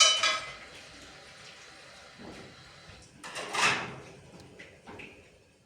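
Metallic clatter: a sudden ringing clang that fades within about half a second, then a louder rattling clatter a few seconds later and a couple of light knocks near the end.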